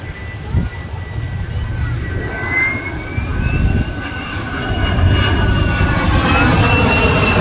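Jet aircraft flying by, its engine noise growing louder with a whining tone that glides up in pitch about two and a half seconds in.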